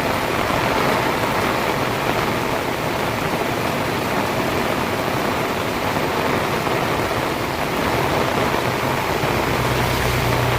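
Heavy rain pouring steadily, a dense even hiss. A low steady hum joins in near the end.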